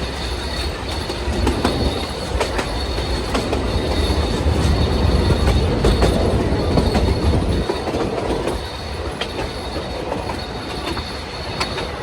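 Puffing Billy narrow-gauge steam train's carriages running along the rails, with a steady high wheel squeal and clicking from the wheels over the track. The low rumble eases about eight and a half seconds in.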